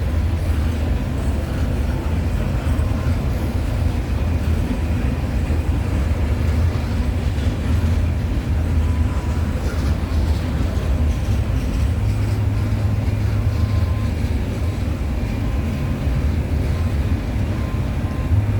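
Freight train cars rolling past on the track, a steady low rumble of wheels on rail with a faint clickety-clack.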